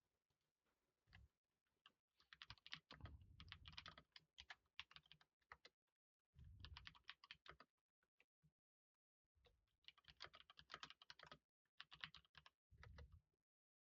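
Faint typing on a computer keyboard: four bursts of rapid keystrokes with short pauses between them.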